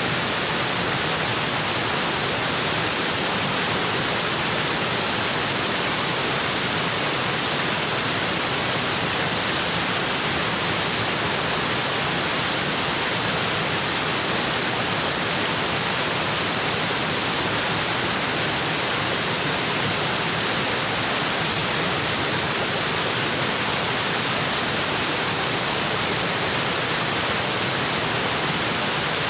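Waterfall water pouring steadily onto rocks, an even rushing wash with no change.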